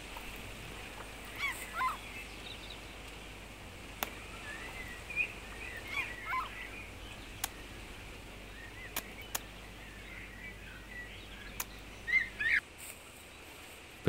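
Short bird calls, rising and falling, come in several scattered groups over a faint steady outdoor hiss. A few sharp clicks are heard in between.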